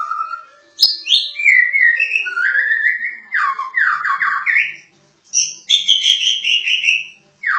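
White-rumped shama (murai batu Medan) singing a loud, varied song of clear whistles, sliding notes and quick runs of repeated down-slurred notes, broken by short pauses about five and seven seconds in.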